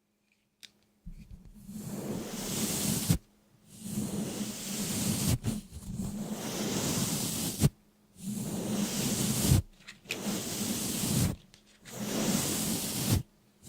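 A hissing, rushing noise in about six bursts of one to two seconds each, with short silent breaks between them.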